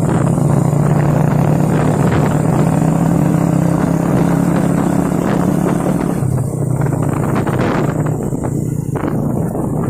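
Heavy truck engine running loud and steady under load, its low hum creeping up in pitch and then dropping about six seconds in.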